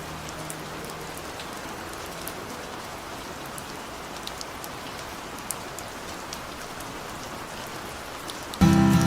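Steady rain with scattered drops ticking. About half a second before the end, loud guitar music starts suddenly over it.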